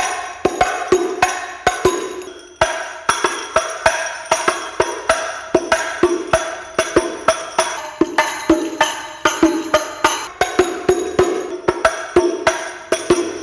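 Terbang frame drums played by hand in a hadrah banjari rhythm: a fast, steady stream of open low strokes and sharp slaps, with a brief break a few seconds in. It cuts off abruptly at the end.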